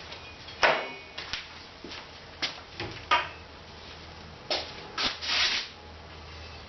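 A series of short knocks and scrapes as hard objects are handled and set down, over a low steady hum. The longest scrape comes a little past the middle.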